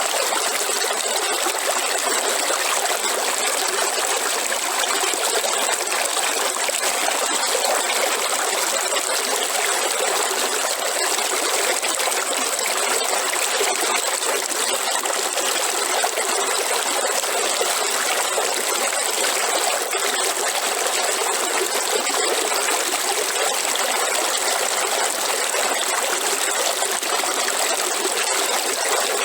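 River water flowing and splashing, a steady rushing with no change.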